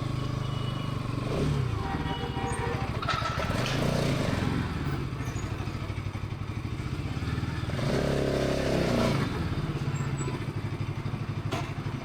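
Bajaj Pulsar NS200's single-cylinder engine and exhaust running, its pitch rising and falling a few times as the throttle changes.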